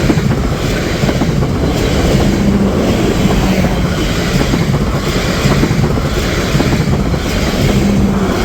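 Class 444 Desiro electric multiple unit passing close by at speed: a steady loud rumble of wheels on rail with a regular beat of clacks as the bogies go past. Wind buffets the microphone.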